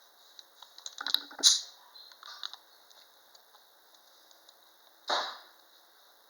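Compression tester and its fittings being handled between cylinders: a run of sharp metallic clicks and rattles about a second in, the loudest about a second and a half in, then a short hiss about five seconds in.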